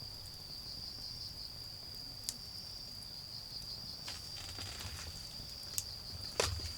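Autumn crickets chirring steadily at a high pitch, with a few sharp pops from a low wood fire, the loudest near the end. A faint low rumble of distant road traffic lies underneath.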